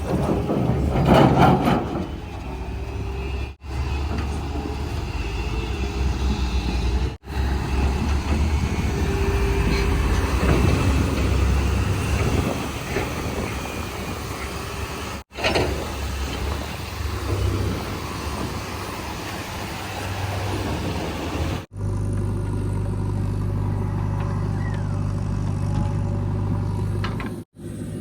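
Engines of heavy vehicles running, heard in several short clips cut one after another, with a brief loud hiss about a second in.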